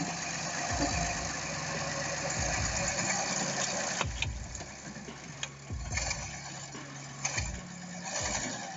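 A vehicle engine running unevenly, with repeated low thumps and a few sharp clicks over it.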